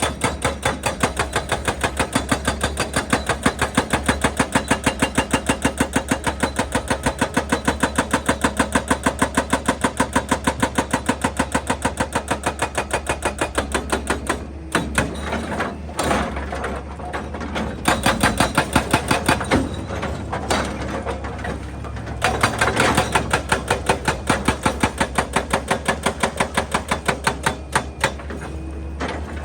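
Excavator-mounted hydraulic breaker hammering rock in a fast, steady train of strikes over the excavator's running engine. The hammering runs unbroken for about half the time, then stops and restarts in shorter bursts.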